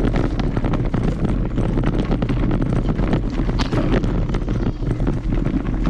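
Wind buffeting the microphone over a constant clatter of many small knocks as a mountain bike rolls and jolts over tree roots on a dirt trail.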